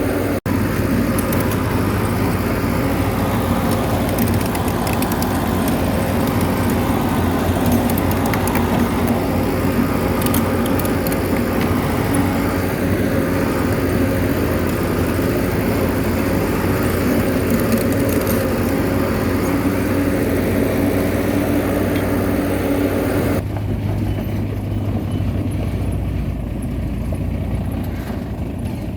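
Bulldozer's diesel engine running steadily, a continuous low drone. About four-fifths of the way through the sound abruptly turns duller and a little quieter.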